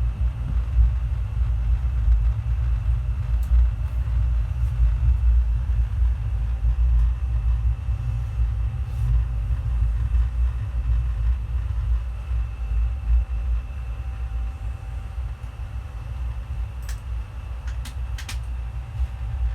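Passenger train running, a steady low rumble throughout, with a few short clicks near the end.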